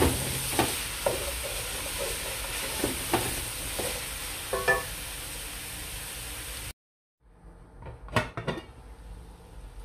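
Minced mutton and diced carrots sizzling in an aluminium pot while being stirred, with irregular knocks and scrapes of the wooden spoon against the pot. The sizzle cuts off about two-thirds in, followed by a few metal clinks as the lid goes onto the pot.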